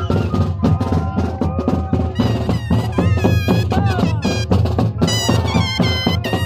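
A moseñada troupe playing: moseño cane flutes sounding a wavering melody in several voices over a steady, fast beat of drums.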